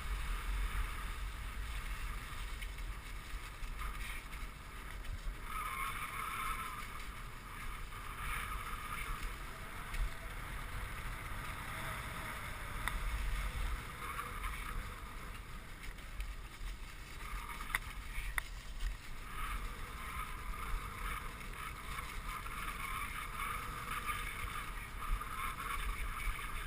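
Dog sled moving along a snow trail: a steady hiss of the runners over snow that swells and eases every few seconds, with wind rumbling on the microphone.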